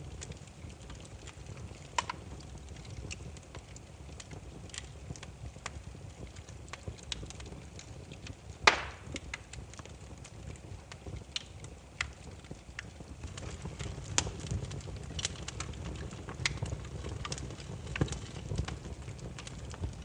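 Burning firewood crackling: irregular pops and snaps over a low rumble of flame, with one loud pop a little before halfway.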